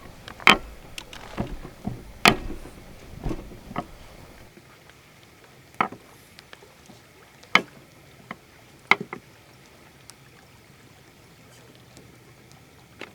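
A series of irregular sharp knocks and clatters, about a dozen, most of them in the first four seconds and then spaced out.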